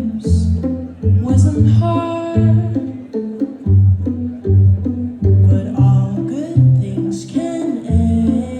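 A female singer singing a pop song live over plucked guitar and a steady bass beat that pulses about twice a second.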